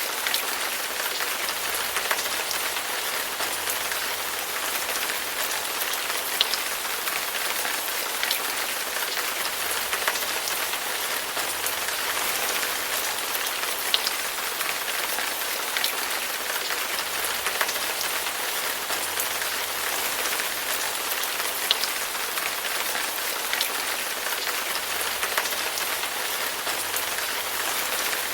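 Steady rain falling, an even hiss with occasional louder single drops ticking close by every few seconds.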